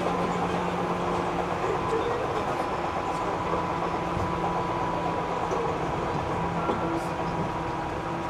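Running noise inside a Seibu 3000 series commuter train car: a steady rumble of wheels on the track, with a few steady hum tones over it.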